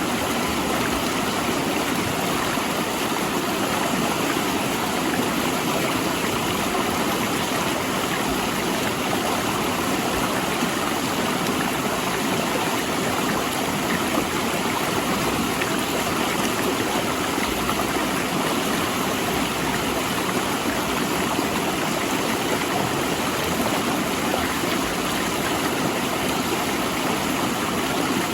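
Fast river water rushing and splashing over large rocks, a steady, unbroken flow.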